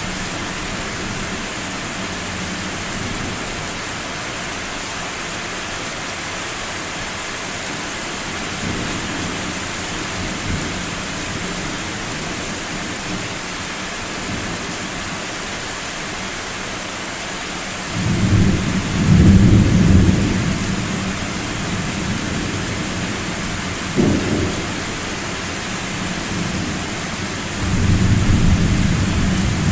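Thunderstorm: steady rain hiss under rolling thunder. A deep rumble swells about two-thirds of the way in and is the loudest part, a short sharp crack follows a few seconds later, and another rumble builds near the end.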